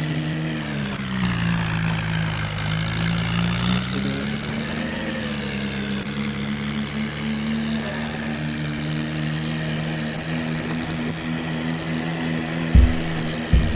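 Tractor engine running steadily; about a second in its pitch drops as if lugging under load, then picks back up around four seconds in. Two short thumps sound near the end.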